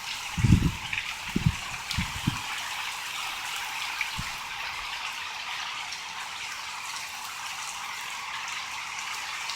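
Steady heavy rain falling, a constant hiss, with a few short low thumps in the first couple of seconds and one more about four seconds in.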